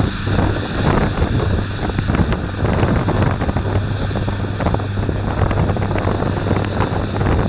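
New Holland T7.315 tractor's 6.7-litre six-cylinder diesel running steadily with a low drone, mixed with wind buffeting the microphone.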